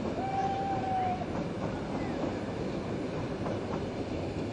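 Train running on the track, a steady noise throughout. Near the start a clear, steady tone lasts about a second.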